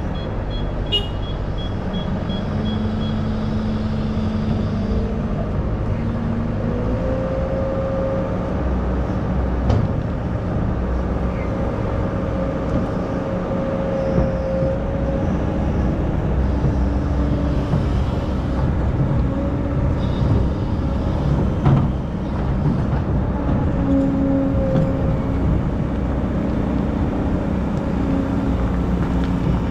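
Excavator running steadily, its engine note holding with a whine that shifts in pitch now and then, and a few sharp knocks, the loudest about two-thirds of the way through.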